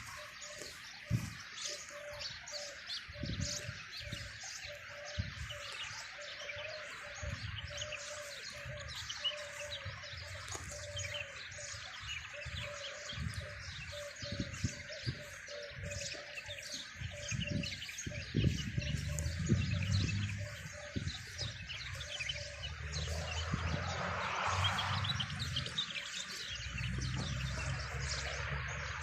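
Many small birds chirping and twittering. A repeated low note sounds about twice a second through the first half, and a low rumble comes and goes in the second half.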